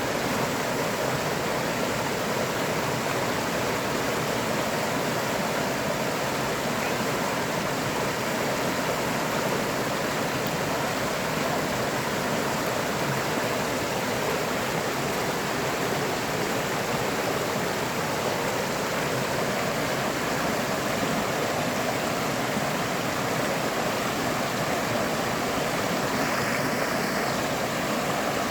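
River water flowing, a steady, even rushing noise that does not change.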